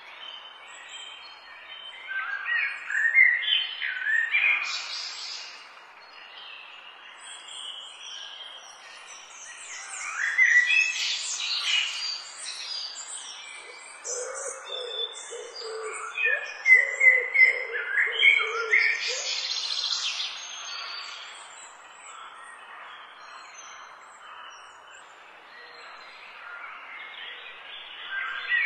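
Birds singing and chirping in three louder bouts with quieter stretches between. A lower repeated call joins in around the middle, over a faint steady outdoor hiss.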